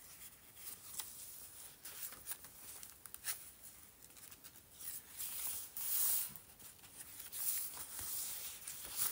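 Paper and fabric pages of a handmade collage journal rustling as they are handled and turned, with a few light clicks; the rustle swells about five seconds in and again near the end.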